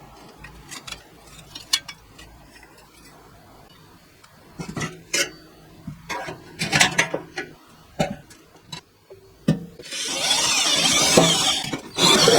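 Metal cans and tools clinking and knocking, then about ten seconds in a loud, harsh, steady tool noise working the metal, which stops for a moment and starts again near the end.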